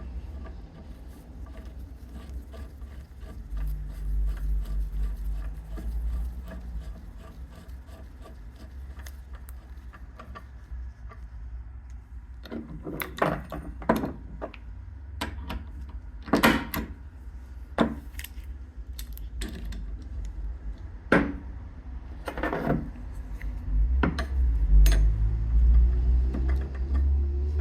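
Tools and small metal engine parts knocking and clinking during hand work on a scooter engine. There is a series of sharp separate knocks in the middle of the stretch, over a low rumble that swells twice.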